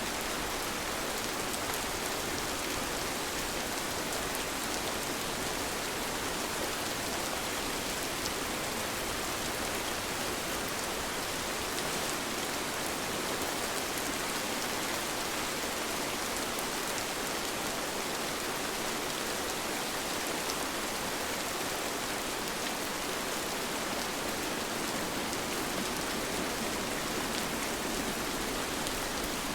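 Steady rainfall, an even hiss with scattered individual drops ticking on surfaces.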